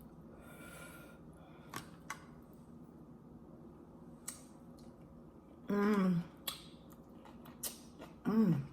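Quiet eating sounds: soft chewing with a few sharp mouth clicks while eating rotisserie chicken, and a short vocal sound about six seconds in and another near the end.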